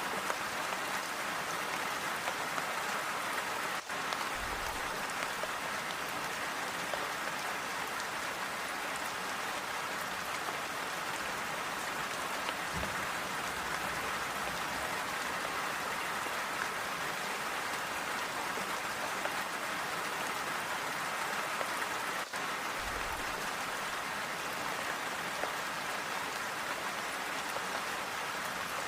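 Steady, even rainfall with a continuous hiss of many small drops, without thunder.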